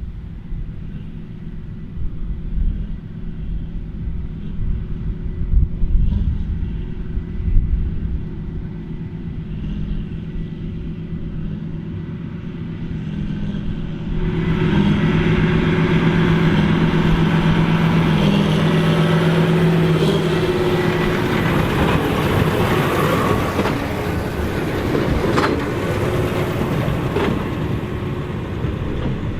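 Large farm tractor's diesel engine running steadily in the field, growing suddenly louder and fuller about halfway through.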